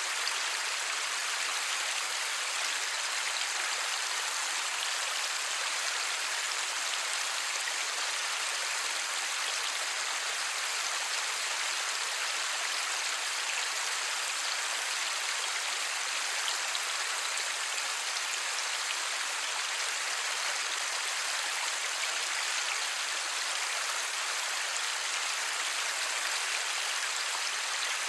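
Light rain falling steadily, an even hiss without thunder or other distinct sounds.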